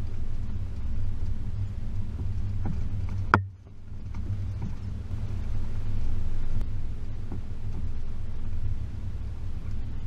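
Range Rover P38's 4.0 V8 running at low revs, a steady low rumble on a rough track, with one sharp knock about a third of the way in.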